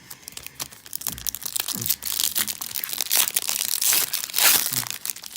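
Plastic wrapper of a trading-card pack being torn open and crinkled, a dense crackling with many quick crackles, loudest about four and a half seconds in.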